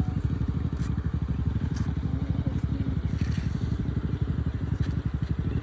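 Motorcycle engine running steadily, its rapid, even firing pulses close to the microphone.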